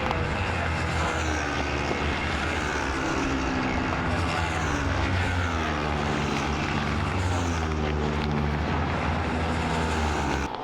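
Racing motorcycle engines running hard on a race circuit, the engine note climbing and falling again and again as the bikes shift up through the gears. The sound cuts off suddenly at the end.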